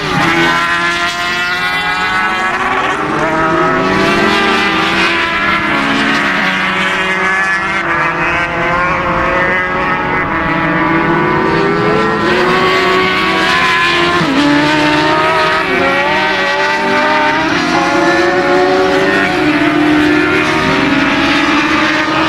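Several racing motorcycle engines running hard at once, their pitch repeatedly climbing and dropping as the riders accelerate and shift.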